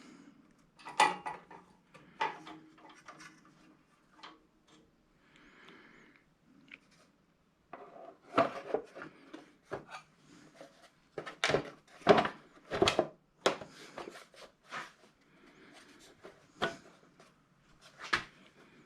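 Irregular knocks, clicks and rubbing as Kohler small-engine parts are handled and fitted back together by hand, with a run of sharper knocks in the middle.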